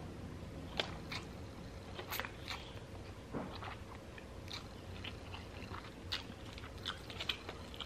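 A person chewing and biting food, with scattered short, soft clicks and smacks of the mouth.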